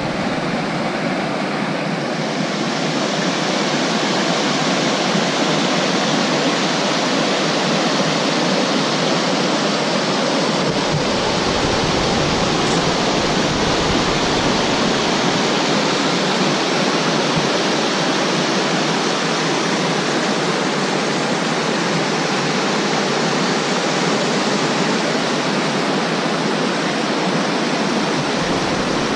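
Steady, loud rush of flowing water. A low rumble joins in from about eleven seconds in until near the end.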